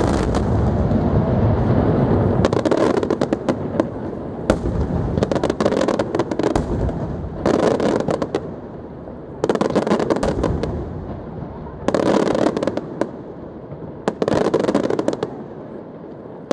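Aerial fireworks display: shells booming and bursting one after another with dense crackling. A heavy rolling boom opens the stretch, then clusters of sharp bangs and crackle follow about every two seconds.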